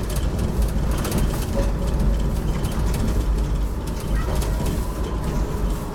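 HTM GTL8 articulated tram running, heard from inside: a steady low rumble of wheels on the rails and running gear.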